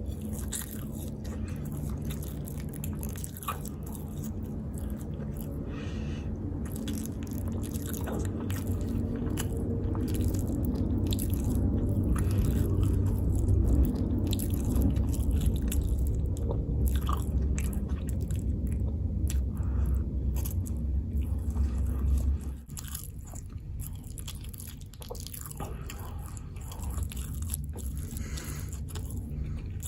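Close-miked chewing and biting of food, with some crunching. The chewing grows louder toward the middle and drops off suddenly about two-thirds of the way through.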